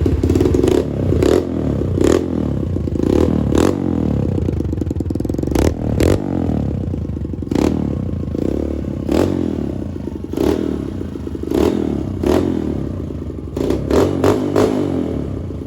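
A small dirt bike engine running through an aftermarket racing exhaust pipe, blipped over and over: the revs swell and drop about once a second, with a sharp crack from the exhaust on many of the blips.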